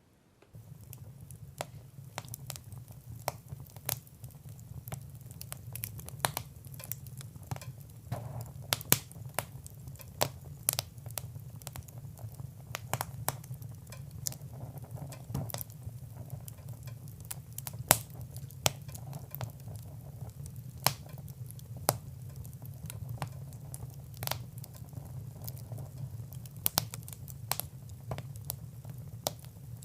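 Fire in a fireplace crackling, with irregular sharp pops and snaps, some much louder than others, over a soft hiss. It starts about half a second in.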